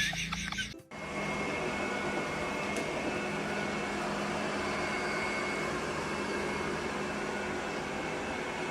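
A steady machine hum with a faint high whine, after a brief busy sound that cuts off suddenly about a second in.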